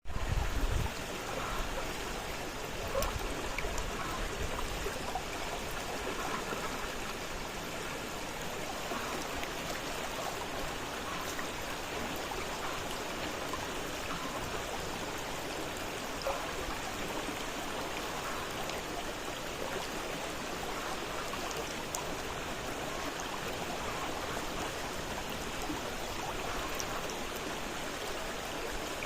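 Fast-flowing river, water rushing steadily with no change in level, with a brief low rumble at the very start.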